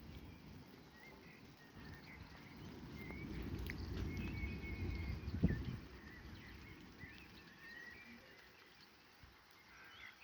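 Faint distant thunder: a low rumble that swells over a few seconds and then dies away. Birds chirp throughout.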